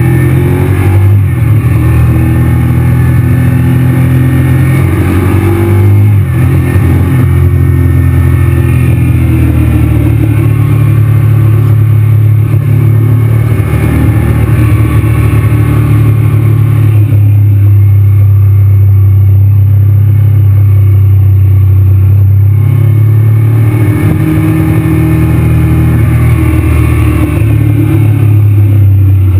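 Honda VTR1000's V-twin engine running steadily at road speed while the motorcycle is ridden, picked up by a camera mounted on the bike, with a few brief shifts in pitch as the throttle changes.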